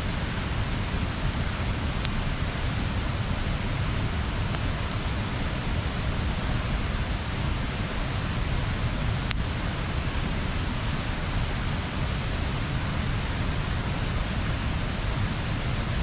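Wood bonfire burning with a steady rushing hiss and a deep rumble, and a few sharp pops and crackles; the loudest pop comes about nine seconds in.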